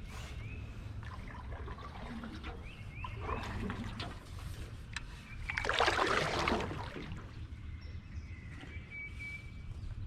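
Canoe paddle working the water: dripping and trickling, with one louder splash of a stroke about six seconds in. Birds chirp briefly now and then over a steady low rumble.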